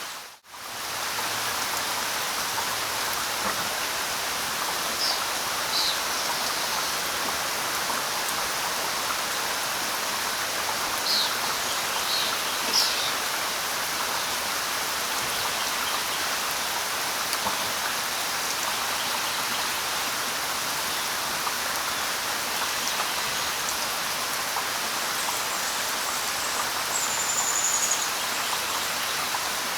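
Steady light rain falling, with a few short high bird chirps scattered through and a brief whistled bird note near the end. The sound drops out for a moment just after the start.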